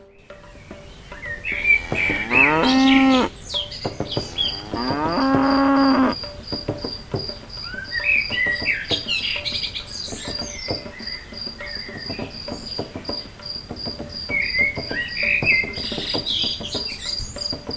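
Cow mooing twice, two long calls a couple of seconds apart. Birds chirp and an insect trills steadily in the background.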